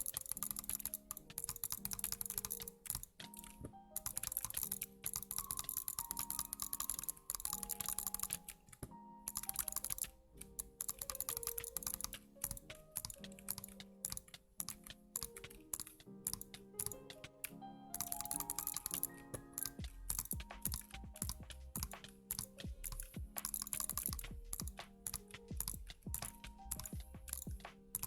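Rapid, almost continuous keyboard typing clicks, with a few brief pauses, over background music with a stepping melody; a deep bass line joins the music about twenty seconds in.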